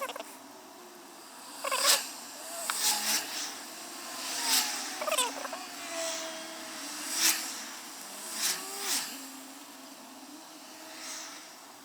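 Sped-up recording of road traffic: cars pass in quick succession as short whooshes, about seven in all, with their engine and tyre notes raised into high gliding whines that sound like mewing.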